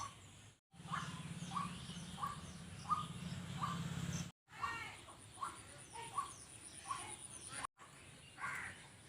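A bird calling over and over in short, evenly spaced calls, about one and a half a second. The sound drops out briefly three times, and a low hum runs under the calls for a few seconds near the start.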